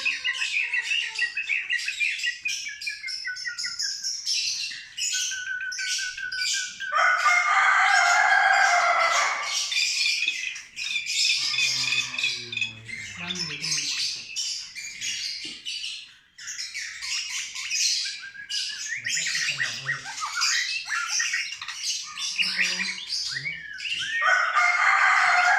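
Several caged songbirds chirping and singing over one another in quick trills and whistles. Louder, harsher calls break in about seven seconds in and again near the end.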